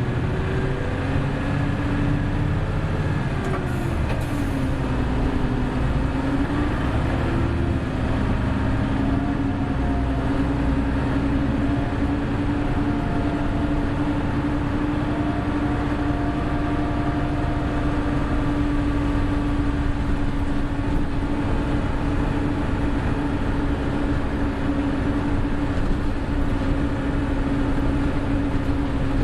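Hino Blue Ribbon City Hybrid bus (HU8JLFP) on the move, with a steady low running drone and a strong steady tone. The tone dips in pitch and comes back about four seconds in, then holds level.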